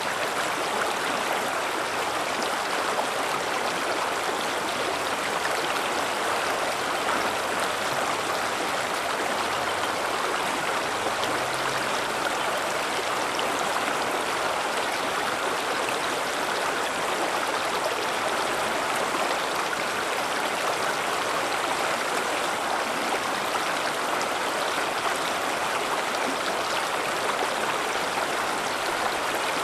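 River water running over rocks: a steady, unbroken rushing.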